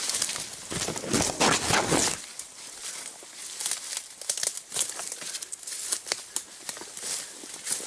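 Footsteps through dry grass and brush: repeated crackling and rustling of stems and twigs underfoot, heaviest for about a second near the start.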